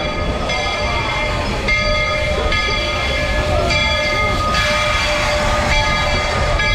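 Walt Disney World Railroad steam train running, with a steady low rumble from the train on the track. Over it are steady high tones whose pitches change about once a second.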